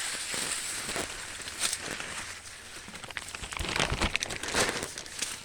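Dry corn plants rustling and crackling as ears of corn are pulled off the stalks, with a few louder snaps around the middle.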